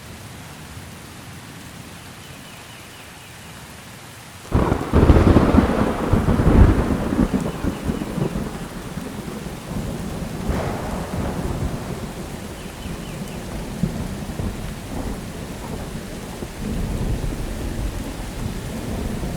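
Steady rain with a sudden close thunderclap about four and a half seconds in, rolling into several seconds of rumbling; a smaller crack follows a few seconds later as the thunder keeps grumbling under the rain.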